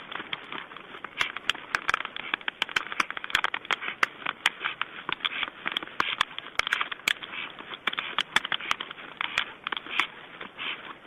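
Storks clattering their bills: a dense run of sharp, irregular clicks and rattles that goes on without a break.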